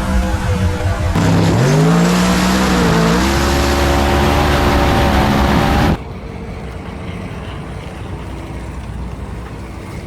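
Drag-racing engine at full throttle, its pitch climbing, dipping once and climbing again, then cutting off abruptly about six seconds in. After that, wind noise on the microphone.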